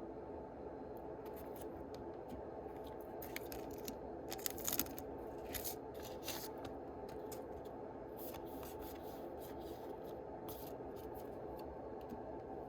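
Yu-Gi-Oh booster packs and cards being handled: short crinkles, scrapes and snips of foil wrappers and card stock, loudest in a cluster about four to five seconds in, over a steady low hum.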